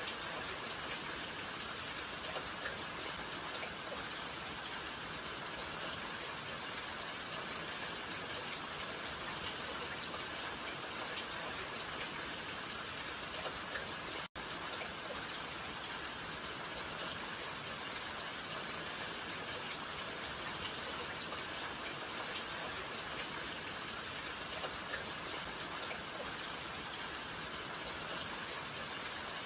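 Rain falling steadily: an even hiss of rainfall with scattered single drops ticking through it. The sound cuts out for an instant about halfway through.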